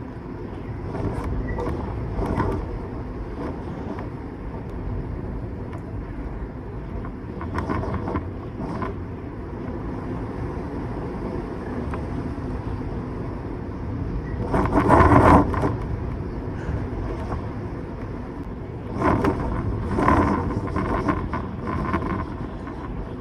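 Strong storm wind blowing, a steady low rumble that swells into louder gusts about two-thirds of the way in and again shortly after.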